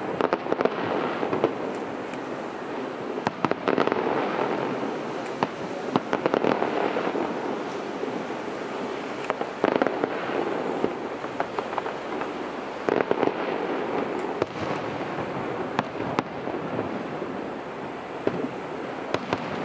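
Aerial fireworks display: shells bursting one after another, sharp bangs at irregular intervals over continuous crackling.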